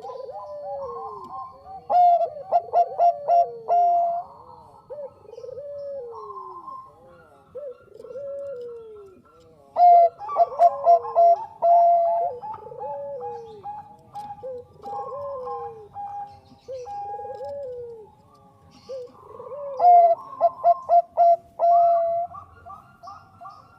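Zebra dove (Bangkok-type perkutut) cooing. There is a run of falling coos about once a second, and three times a loud phrase of quick stuttering coo notes breaks in, roughly every eight to ten seconds.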